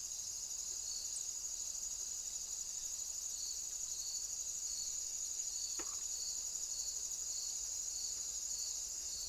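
Insects stridulating: a steady, high-pitched trill, with a second, shorter chirp repeating about twice a second beneath it.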